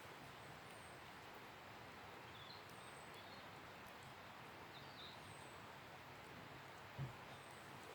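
Faint outdoor quiet: a steady soft hiss with distant birds calling now and then in short high chirps and thin falling whistles, and one soft thump near the end.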